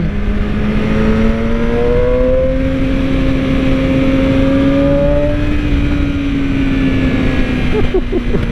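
Yamaha R6's inline-four engine running under way, its note climbing gently for about five seconds and then easing off a little.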